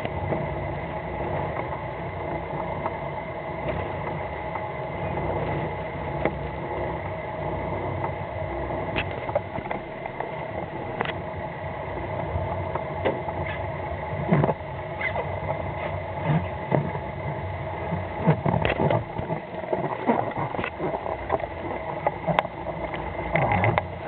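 Fishing boat's engine running steadily, with scattered knocks and thumps that come more often in the second half.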